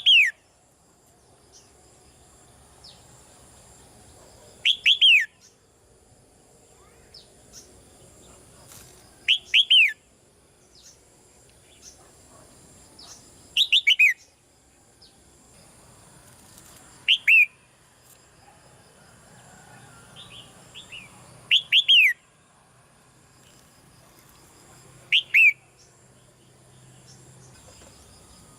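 Red-whiskered bulbul calling: a loud, short call of two or three quick falling notes repeats about every four seconds, with faint softer chirps between.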